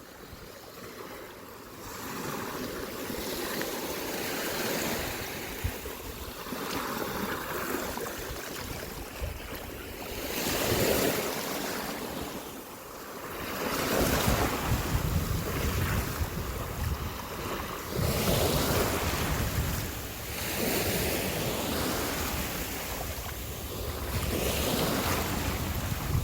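Small waves breaking and washing up on a sandy beach, the surf swelling every few seconds, with wind buffeting the microphone.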